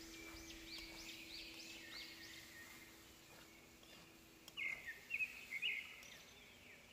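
Small birds chirping: a run of short rising-and-falling calls, then a louder cluster of sharper chirps about four and a half seconds in.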